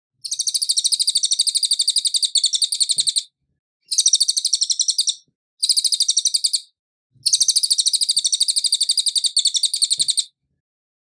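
A cililin bird singing four bouts of rapid, high, evenly repeated chattering notes, about nine a second. The first and last bouts are about three seconds long and the middle two are shorter, each with a short pause between.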